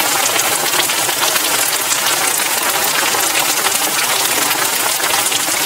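Button mushroom pieces sizzling in hot butter in a frying pan, a steady dense crackle of many small pops.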